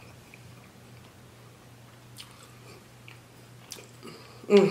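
A person chewing a mouthful of rotisserie chicken with lips closed: soft, faint chewing with a few small mouth clicks, then a short voiced sound near the end.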